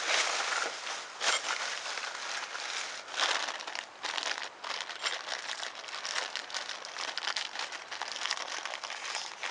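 Continuous crinkling, crackling rustle with irregular small crackles, louder in short bursts about a second in and about three seconds in.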